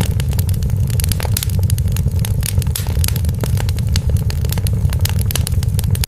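Wood fire in a fireplace crackling, with many sharp pops every second over a steady low rumble of the flames.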